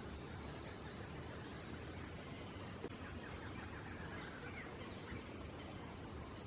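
Faint bird calls over a steady background hiss: a high, thin wavering note about two seconds in, then a quick run of lower notes.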